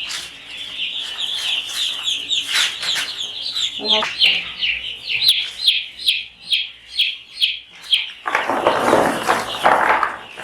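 A brood of chicks peeping, many short high falling peeps overlapping, several a second. About eight seconds in, a loud rustling noise joins them for the last couple of seconds.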